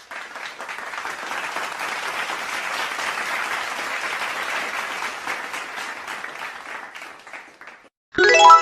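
Crowd applause sound effect, a dense wash of clapping that swells in, holds for several seconds and fades out. Near the end a short pitched musical tone cuts in, the start of the next sound effect.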